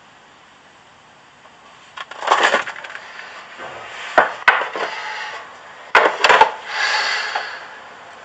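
A few sharp clicks and knocks mixed with rustling, starting about two seconds in after faint hiss.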